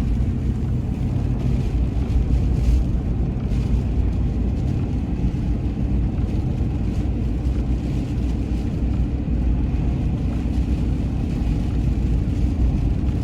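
A vehicle running with a steady low rumble, with wind noise mixed in.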